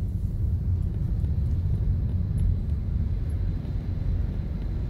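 Steady low rumble of a Toyota Corolla, heard from inside the car's cabin.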